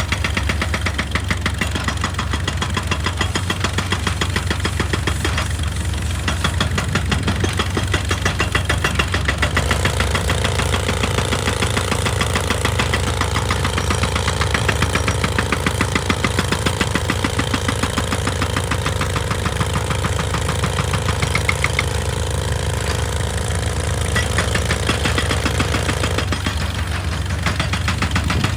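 Heavy diesel machinery running steadily with a fast, even pulsing. A steadier mid-pitched tone comes in about ten seconds in and drops out near the end.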